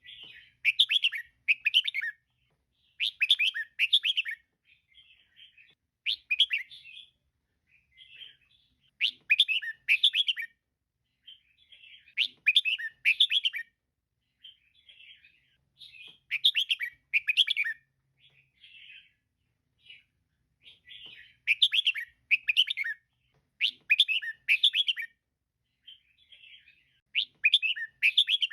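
Female red-whiskered bulbul calling: short bursts of quick, chirpy notes, repeated about every two to three seconds with softer single notes in between.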